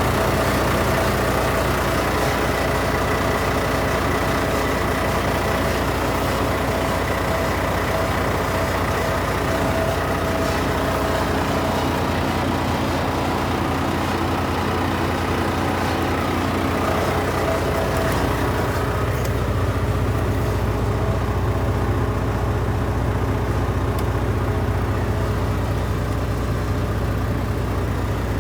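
A 2020 Volvo VNL 860 truck tractor's D13 diesel engine idling steadily. About two-thirds of the way in, the higher hiss drops away and a lower hum grows stronger.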